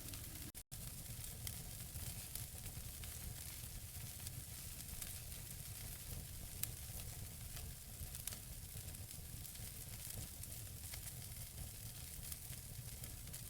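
Wood fire burning in a fireplace: logs crackling with scattered small pops over a low steady rumble, one sharper pop about halfway through. The sound cuts out for a split second near the start.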